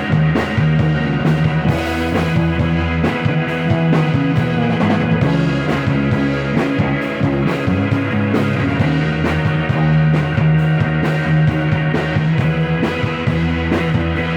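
Instrumental rock music with a steady drum beat and sustained guitar or organ chords, in a psychedelic rock style.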